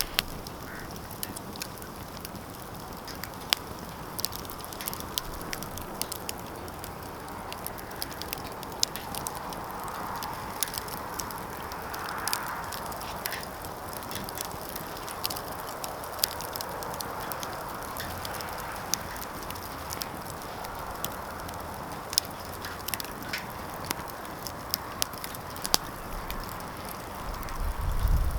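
Wood fire crackling in a fireplace: frequent sharp pops and snaps over a steady hiss of burning, with a low rumble near the end.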